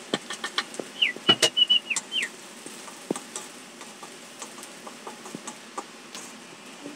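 Sliced shallots frying in hot oil in a wok, sizzling steadily with sharp pops and crackles, densest in the first couple of seconds, as a bamboo spoon stirs them. A brief high whistle sounds about a second in, held and then dropping in pitch.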